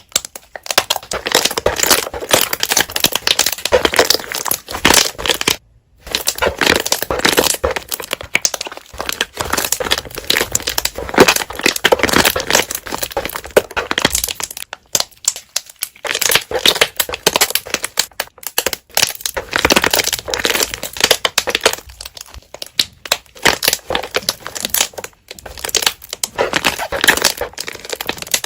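Slime being squished and pressed by hand, with air bubbles popping in a dense run of crackling clicks and pops. There are short pauses about 6 and 15 seconds in.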